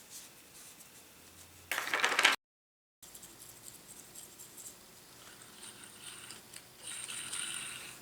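Small metal ball bearings being handled and clinking, with a short loud burst of hiss about two seconds in, cut off abruptly. Near the end comes a second, brief spell of clinking with a high metallic ring.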